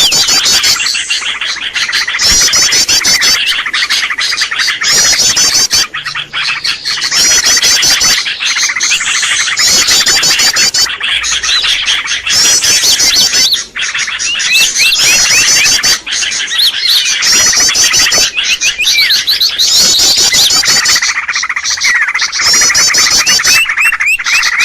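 Small birds chirping and twittering densely, with rapid high trills repeating every second or so over a continuous chatter: a bird-lure call recording used to draw birds in for trapping.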